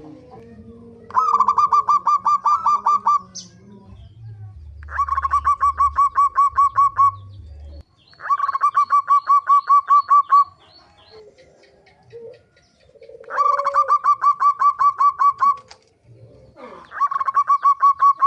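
Zebra doves (perkutut) cooing: five bouts of rapid, rhythmic pulsed notes, each about two seconds long, separated by short pauses.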